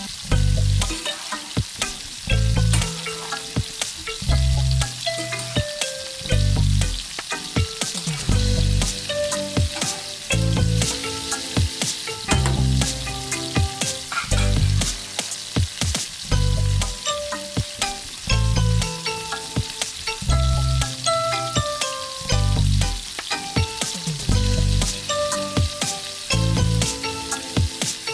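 Chicken curry sizzling as it fries in a pan, with a utensil clicking and scraping against the pan as it is stirred. Background music with a bass note about every two seconds runs along with it.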